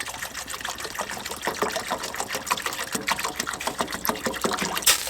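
Water being poured into a stainless steel pot, a steady trickling splash, with a brief clink near the end.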